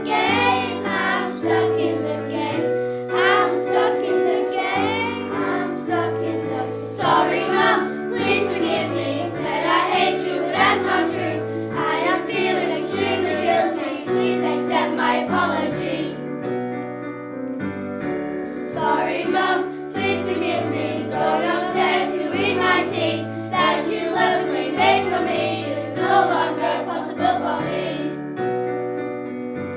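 A children's choir singing a song over instrumental accompaniment with a steady, stepping bass line.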